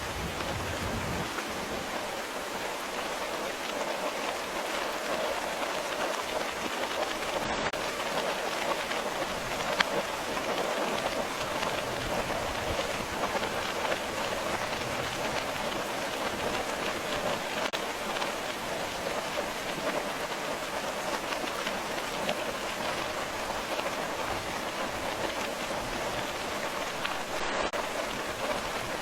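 Steady rain falling: an even hiss of many small drop ticks, with one sharper tick about ten seconds in.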